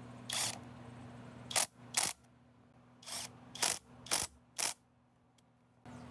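Seven short rasping strokes of a hand tool on metal, irregularly spaced, over a low steady hum that drops out for the middle few seconds.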